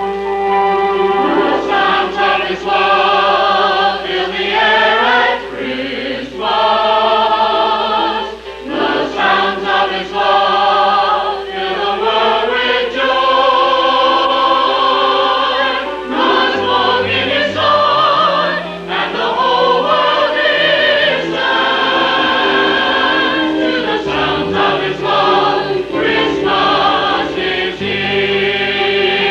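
Church chancel choir singing a sacred cantata in parts over instrumental accompaniment, from an old VHS tape recording.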